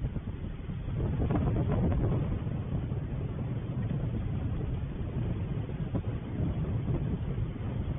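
Wind buffeting the microphone: a low, uneven rumble that grows louder about a second in.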